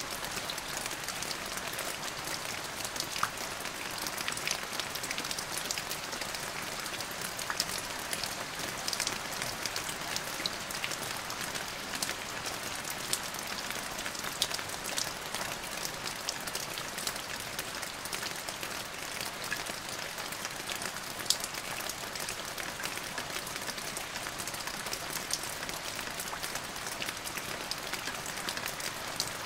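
Steady rain falling on a surface: an even hiss thick with the ticks of separate drops, a few of them louder hits.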